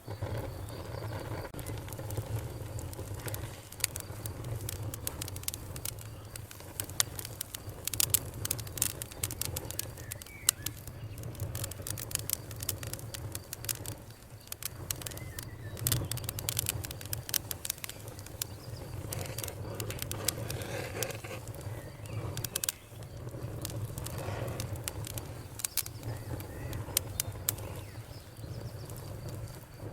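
Wood fire burning in a fireplace: irregular sharp crackles and pops over a soft steady rumble of the flames, the crackling thickest in the middle stretch.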